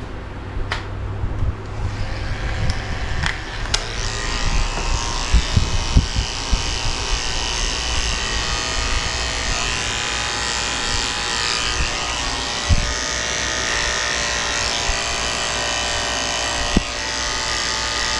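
Electric dog-grooming clippers fitted with a #10 blade, running steadily as they shave the hair under a dog's tail; they start about four seconds in, after a few sharp clicks.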